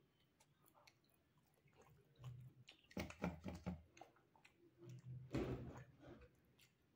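Faint close-miked chewing: wet mouth clicks and squishing of rice, dal and boiled egg. Two louder bouts of chewing come about three and five seconds in.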